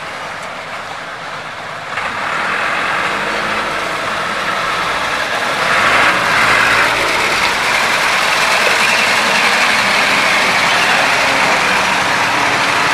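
Truck engine running with road noise, getting louder about two seconds in.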